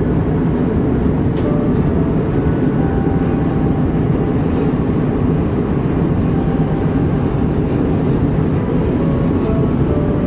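Loud, steady low rumble of an airliner's cabin noise, with faint music underneath.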